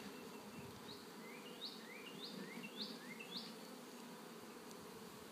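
Honey bees buzzing steadily around an open hive as a freshly installed package of bees settles in. A run of five or six short rising whistled notes sounds over the buzz in the first few seconds.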